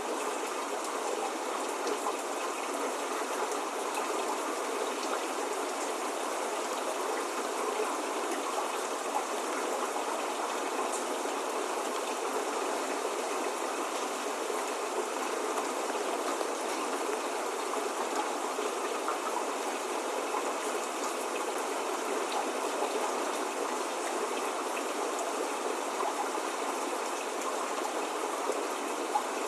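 Steady spring rain falling, an even continuous hiss with faint scattered drop ticks.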